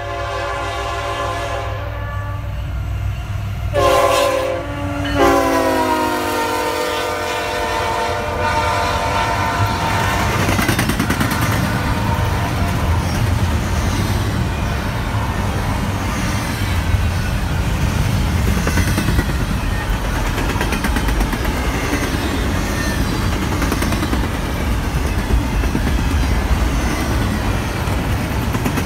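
Diesel locomotive horn sounding as the intermodal train approaches: one blast, a short break, then a louder blast whose pitch drops as the lead locomotive passes and fades away. Then the double-stack container cars roll by with a steady wheel-on-rail rumble and rhythmic clicking over the rail joints.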